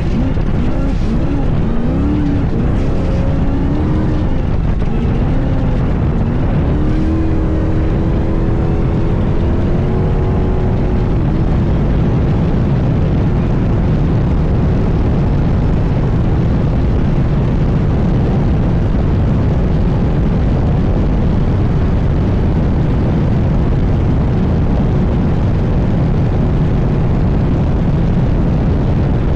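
Class 1 all-wheel-drive off-road race car running hard, its engine pitch rising and falling with the throttle for about the first ten seconds, then settling into a steady, loud rumble.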